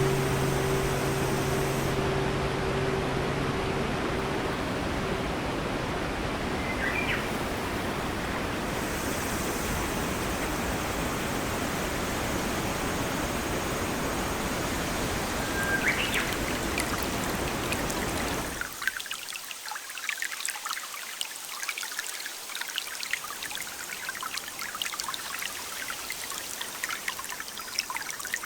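Steady rushing rain-and-water ambience with two short bird chirps, which cuts suddenly about two-thirds of the way through to a lighter patter of dripping, trickling rain.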